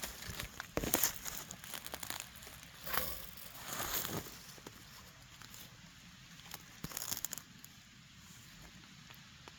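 Rustling and crunching of dry forest-floor litter, like someone moving through leaves and twigs, in a few irregular bursts over the first seven seconds, then quiet.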